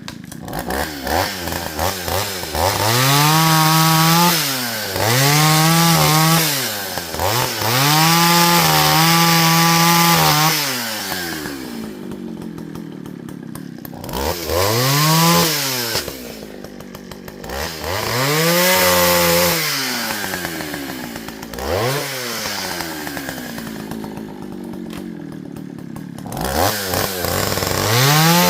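Two-stroke chainsaw revved about seven times. Each time it climbs steeply to full speed, holds for a second or a few, then drops back toward idle.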